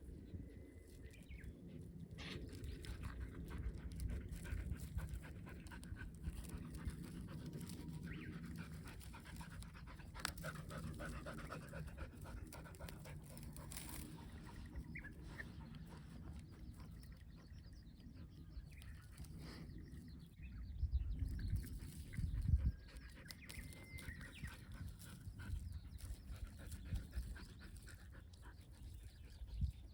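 A dog panting steadily, with a few louder low thumps about two-thirds of the way through.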